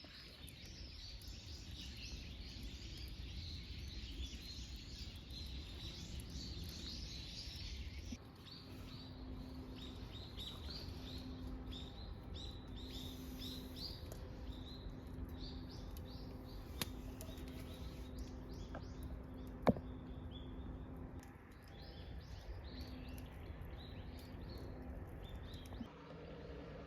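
Small birds chirping again and again over a low outdoor rumble, with the background changing abruptly about eight seconds in and again near the end. One sharp click comes about two-thirds of the way through.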